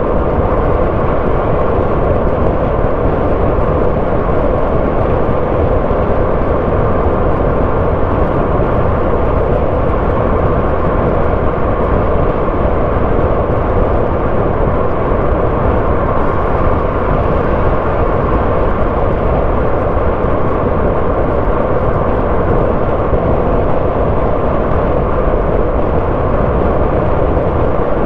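Car driving at a steady pace: even engine and tyre-on-road noise with no changes or distinct events.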